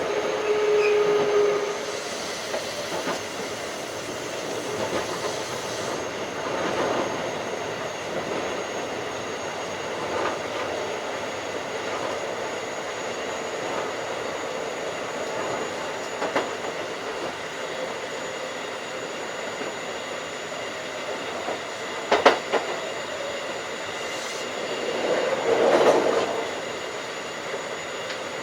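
Keikyu 1500 series field-chopper electric train running at speed, with steady rolling wheel-and-rail noise and a faint high whine. The wheels knock over rail joints at intervals, with two sharp clicks a little past two-thirds of the way through and a brief swell of louder rumble near the end.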